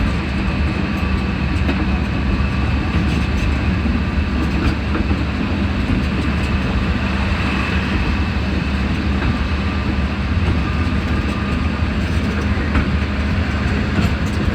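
Sentinel diesel shunter's Rolls-Royce C Range supercharged eight-cylinder diesel engine running with a steady, even drone.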